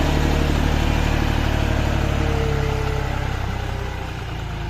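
Diesel tractor engine running steadily, its sound easing off a little about three seconds in.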